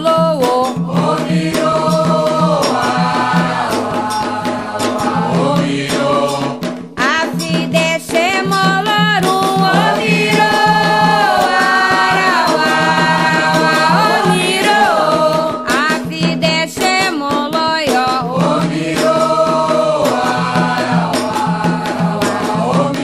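Candomblé sacred chant: voices singing a long-held melody over steady percussion with a rattle.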